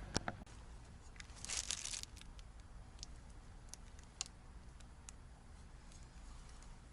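A short crinkling rustle, as of something being handled, with a few light clicks and taps before and after it.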